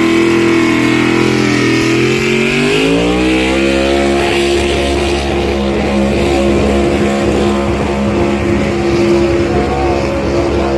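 Loud engine of a pulling vehicle running, revving up about two seconds in and then holding at a steady higher speed.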